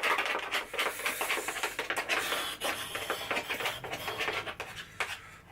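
Rapid stirring and scraping of thick Greek yogurt and whey protein powder in a container, many quick strokes a second, growing quieter near the end.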